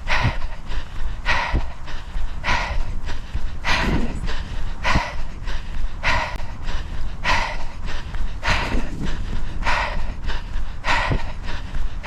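A runner's heavy panting close to the microphone: a hard breath about every second and a bit, over a steady low rumble.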